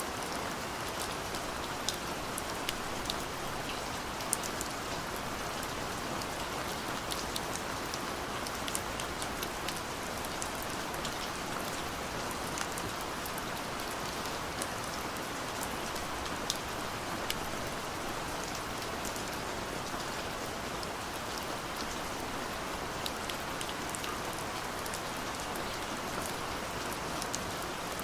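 Steady rain falling, an even hiss with many separate drops pattering on a surface.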